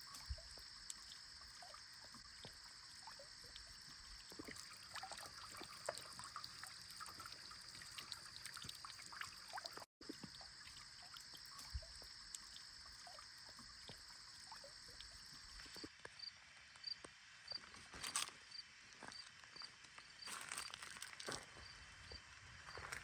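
Quiet outdoor garden ambience: a steady high-pitched drone, then a high note repeated about twice a second, over scattered small ticks and rustles.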